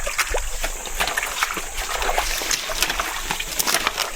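Irregular splashing and sloshing in shallow floodwater, a run of short uneven splashes.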